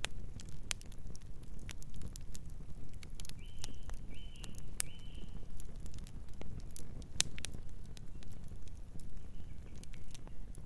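Wood fire crackling: irregular sharp pops and snaps over a steady low rumble of the flames. A distant bird calls three short notes in quick succession about a third of the way in, and once more faintly near the end.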